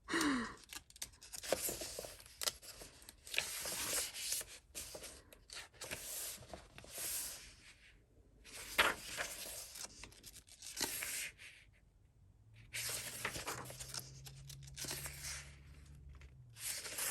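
Paper pages of a softcover coloring book being turned and handled, a rustling swish every second or two with short pauses between.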